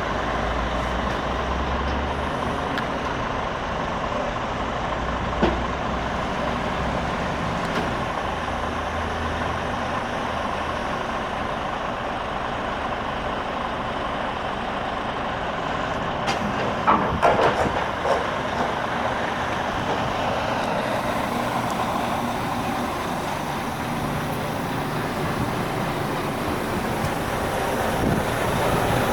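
Scania G450 truck's engine running steadily, with a brief cluster of sharp clatters about two-thirds of the way through.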